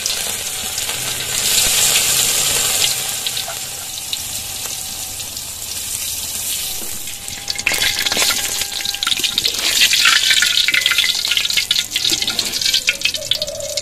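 Tempeh slices deep-frying in hot oil in a wok: a steady sizzle that turns crackly, with many sharp pops, from about halfway on.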